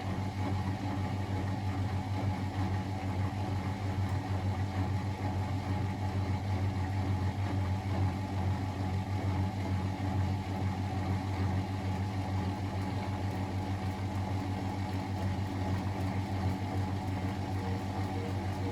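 Miele Novotronic W921 washing machine running, its motor giving a steady, even hum that does not change.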